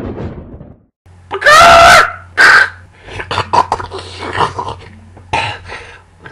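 A shrill, high cry loud enough to clip, lasting about half a second, starts a little over a second in. A shorter cry follows, then scattered softer vocal noises.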